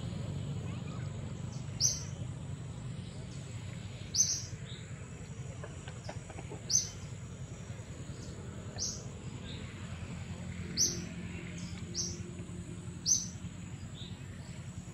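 A bird chirping: short, high single notes repeated about every second or two, over a faint steady high tone and a low outdoor background rumble.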